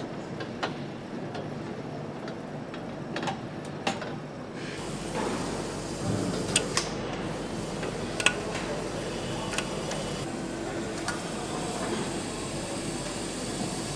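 Workshop sounds during motorcycle engine assembly: scattered sharp clicks and knocks of metal parts and tools over a steady background noise, which grows louder with a low hum about five seconds in.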